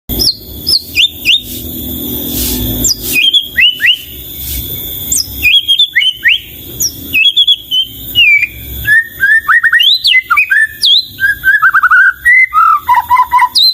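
White-rumped shama (murai batu) singing a varied song of clear whistled notes and quick glides, turning in the second half into fast runs of repeated notes that step down in pitch near the end.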